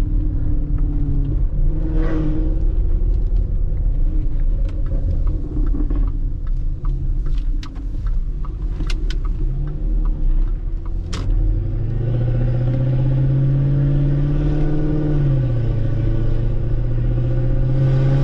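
Range Rover L322's supercharged 5.0-litre V8, breathing through 200-cell catalytic converters and a louder exhaust, running at low revs over a bumpy dirt road with scattered clicks and knocks. About two-thirds of the way in it pulls hard, its pitch climbing, dipping once at a gear change, then climbing again.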